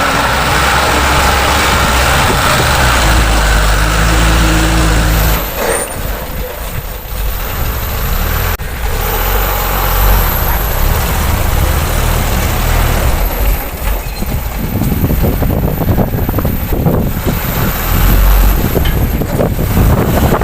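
Large dump truck's diesel engine running loud and low, dropping suddenly about five seconds in and picking up again a few seconds later.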